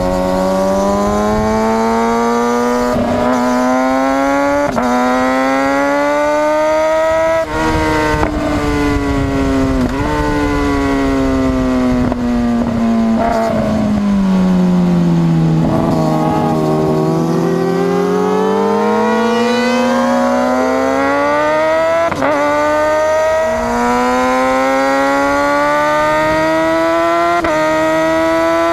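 Kawasaki Ninja ZX-6R's inline-four engine accelerating through the gears, its pitch climbing in each gear and dropping sharply at each of several upshifts. In the middle the revs fall away as the bike slows, then climb again through more upshifts.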